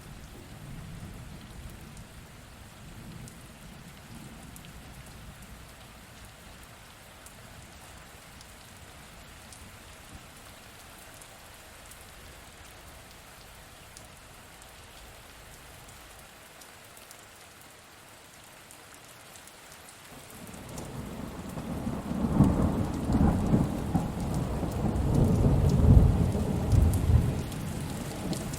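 Steady rain falling, with a rumble of thunder fading at first and then a long rolling thunderclap that builds about two-thirds of the way through, loudest near the end.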